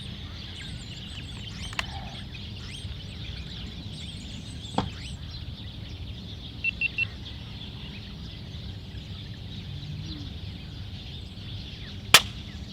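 Birds calling against a steady outdoor background, then near the end a single sharp report from a silenced Daystate Red Wolf Safari .22 PCP air rifle firing a slug.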